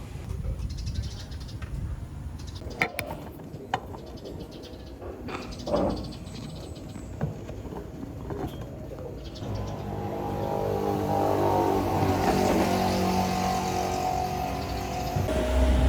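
Low vehicle rumble with a few sharp clicks in the first half; from about ten seconds in, a steady engine hum with several tones grows louder.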